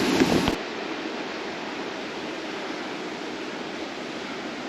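Steady rushing of flowing stream water. A louder, deeper rush in the first half second cuts off abruptly.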